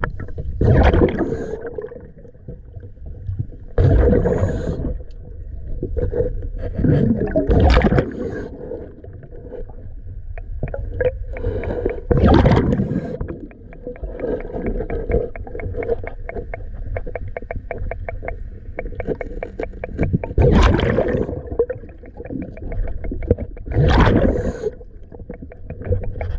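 Diver breathing through a diving regulator underwater: loud gurgling surges of exhaled bubbles every few seconds over a steady hum, with a fine rapid crackle in the middle.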